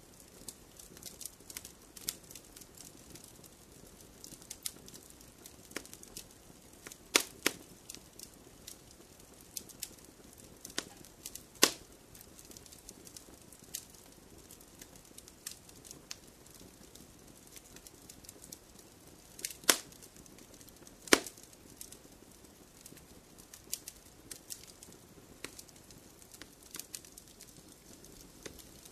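Wood fire crackling: irregular small snaps and ticks over a faint low hiss, with a few loud sharp pops, two of them close together around twenty seconds in.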